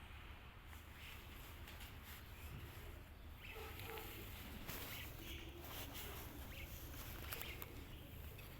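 Pigeons moving about: scattered light clicks and scuffles over a low steady hum.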